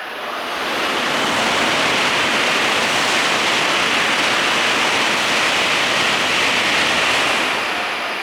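A Shinkansen train running along the platform, a loud steady rush of air and wheel noise that swells over about the first second, holds, and eases off near the end.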